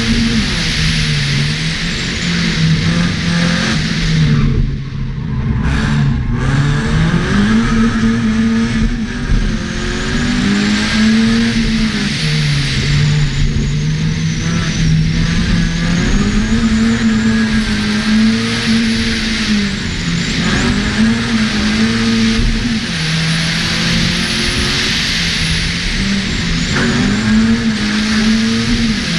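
Opel Corsa B's 1.4-litre 16-valve four-cylinder engine driven hard, its pitch climbing and then falling over and over as it is accelerated and lifted off, with a brief drop about five seconds in. A steady rushing road and wind noise runs under it, heard from inside the car.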